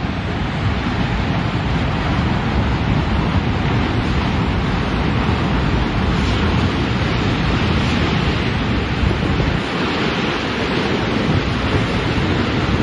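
Strong wind blowing across the microphone: a loud, steady rushing noise with low buffeting, which eases slightly about ten seconds in.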